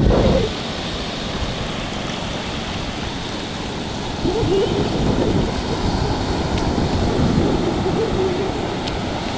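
Sea surf washing onto a sandy beach, with wind on the microphone; the wash swells a few seconds in.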